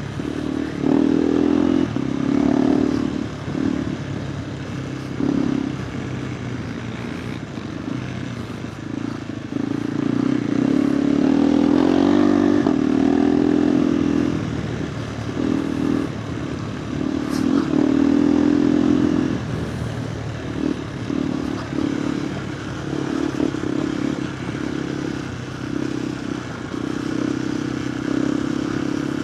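KTM 390 Adventure R's single-cylinder engine through an aftermarket Norifumi stainless slip-on exhaust, rising and falling in loudness again and again as the throttle is opened and closed while riding off-road.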